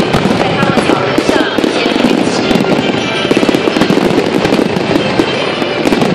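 Fireworks display going off in dense, rapid succession: a continuous run of pops, bangs and crackles with no pause, with music and crowd voices underneath.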